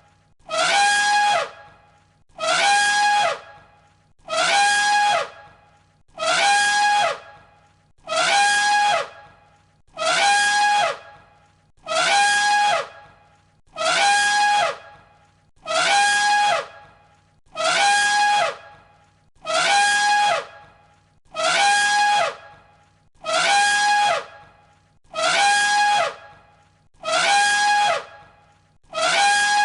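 Elephant trumpeting: the same short, brassy trumpet call repeated identically about every two seconds. Each call is about a second long, a steady high blare with a falling slide under it.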